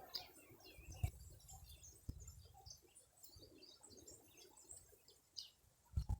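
Several small birds chirping faintly in short, scattered notes, with a few soft low thumps, the strongest near the end.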